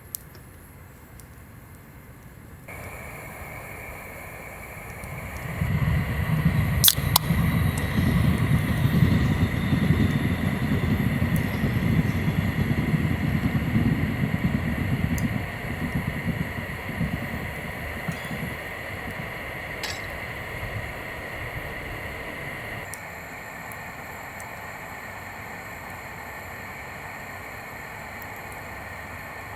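An electric train passing: a low rumble builds about five seconds in, holds for around ten seconds and fades away. A steady high whine runs alongside it.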